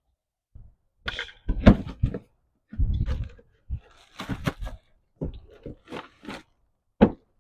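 A series of clunks, knocks and rattles as the air cleaner lid and old air filter are taken off the engine and handled.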